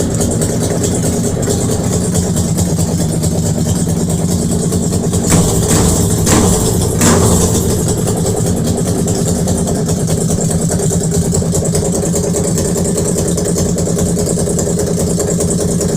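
Vehicle engine running steadily just after its first start in six months, with three short throttle blips about five to seven seconds in, then settling back to a steady idle.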